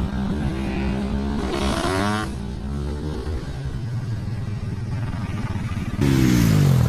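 Dirt bike engines running, with a brief rev about two seconds in. Near the end a louder engine comes in and its pitch sweeps downward.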